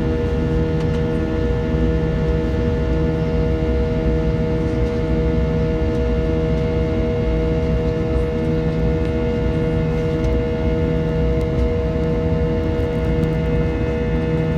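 Jet airliner engines heard inside the passenger cabin: a steady loud hum and rumble with several held tones, and a slow throb about every two seconds.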